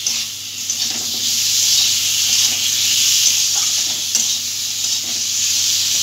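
Potatoes, tomatoes and spice paste sizzling in hot oil in a kadai while a spatula stirs and scrapes through them, the sizzle steady with a scrape now and then.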